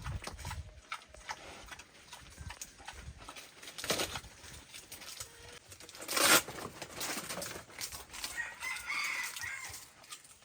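A rooster crowing once near the end, over scattered knocks and rustling, with a short loud noisy burst about six seconds in.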